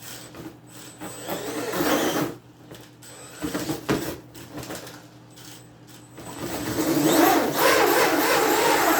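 Mini RC monster truck's electric motor whining as it drives and spins its tyres on cardboard, in two loud bursts, the second longer. A single sharp knock comes about four seconds in.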